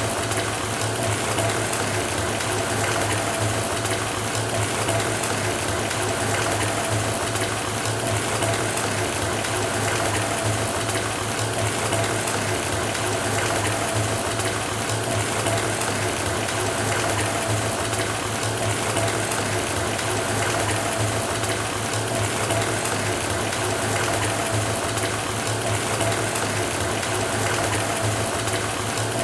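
Bath faucet running into a filling bathtub: a steady, unbroken pour of water, with a faint steady hum underneath.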